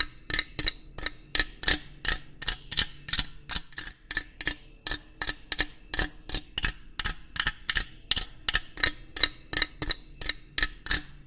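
Rapid, fairly even clicking, about four sharp ticks a second, each with a bright metallic ring, over a faint low hum.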